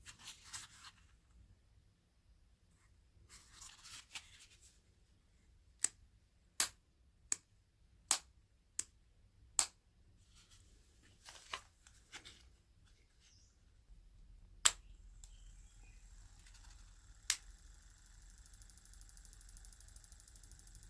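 Scratchy rustling of handwork and a run of sharp single clicks. Past the middle a faint steady hum with a thin high whine starts, as of a small motor running.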